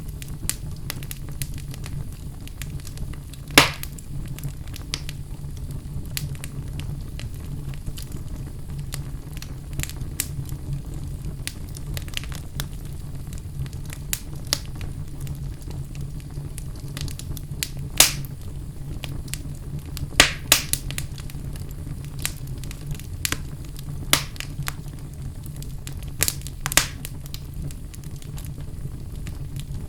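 Wood fire burning in a fireplace: a steady low rumble under frequent small crackles, with a few sharp loud pops, the biggest about four seconds in and around eighteen and twenty seconds.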